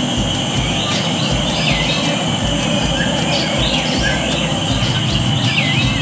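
Birds in an aviary calling with several short whistled notes that swoop up and down, over a steady high insect-like drone and a low rumble.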